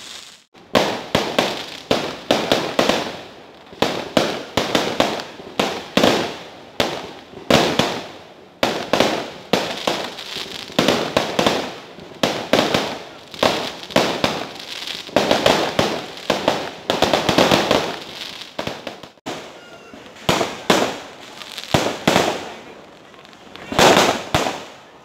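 Kerala vedikettu fireworks barrage: aerial shells going off in quick succession, a dense run of bangs about two a second with crackle between them. There are short lulls about half a second in and again about two-thirds of the way through.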